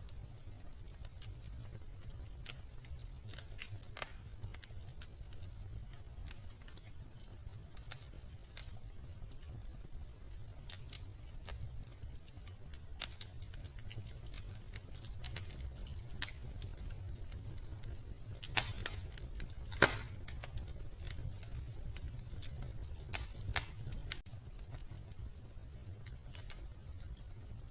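Wood fire crackling in a fireplace: scattered sharp pops and snaps over a low steady rumble, with the loudest pops coming in a cluster about two-thirds of the way through.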